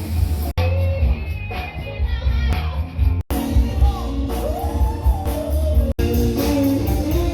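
Live band playing rock music with a singer, the bass strong. The sound cuts out for an instant three times.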